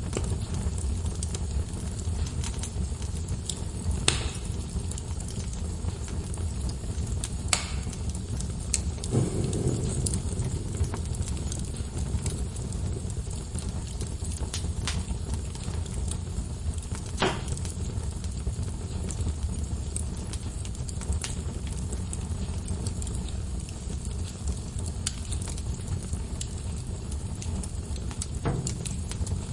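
Wood fire burning in a fireplace, crackling with a steady low rumble. Scattered small pops run throughout, with a few sharper, louder snaps spread through.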